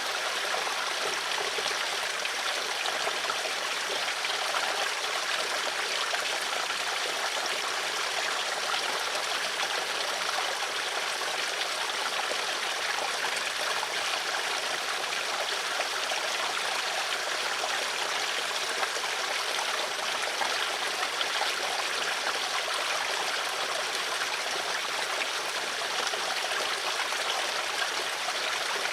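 A stream of flowing water running steadily, an even rushing sound that is mostly mid and high in pitch with little bass.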